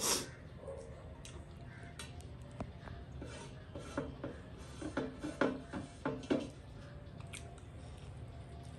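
Close-up eating by hand: short wet chewing clicks and smacks, bunched about four to six seconds in, with fingers pressing and scraping food against a metal plate. A sharper smack or knock at the very start.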